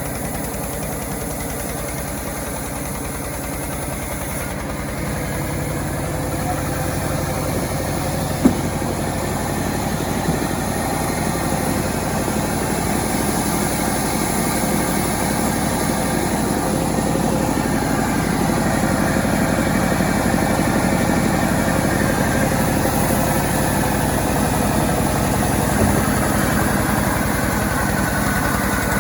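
Engine of a self-assembled chainsaw running steadily, growing a little louder through the second half, with one sharp knock about eight seconds in.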